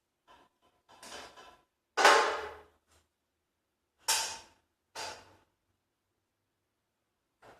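A handful of sudden knocks and clatters, the loudest about two seconds in and two more a little after four and five seconds, each dying away quickly.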